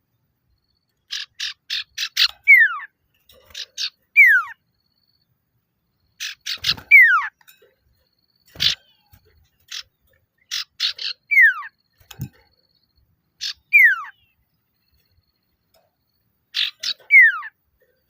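Male common iora's challenge call: short runs of quick, rattling notes, each followed by a clear whistle sliding down in pitch, repeated about six times with short pauses between.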